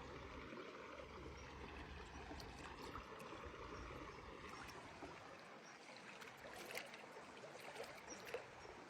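Faint flowing river water, a soft steady trickle and gurgle, with a couple of small knocks or splashes near the end.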